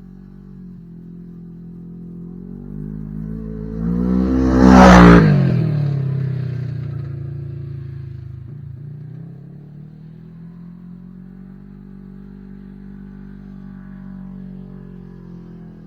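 Kawasaki Teryx KRX 1000 side-by-side's parallel-twin engine, breathing through an MBRP slip-on muffler, driving past: the exhaust note grows louder, peaks about five seconds in and drops in pitch as it moves away, then goes on more faintly.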